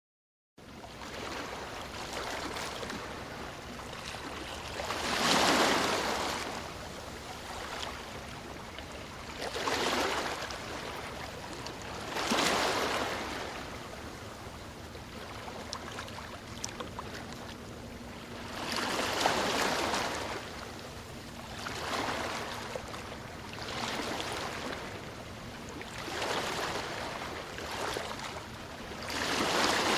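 Ocean surf: a steady wash of water with a louder swell each time a wave breaks, about eight in all, every few seconds. It starts suddenly just after the beginning.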